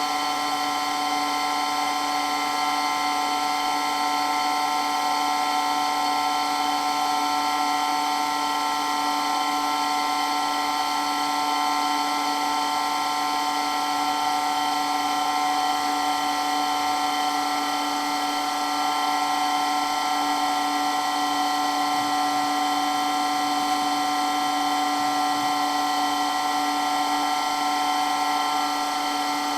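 Electric water pump running continuously with a steady whine made of several fixed tones, unchanging throughout.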